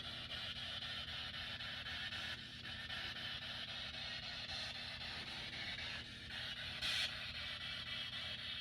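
Spirit box scanning through radio frequencies: a steady hiss of radio static, with a brief louder burst about seven seconds in.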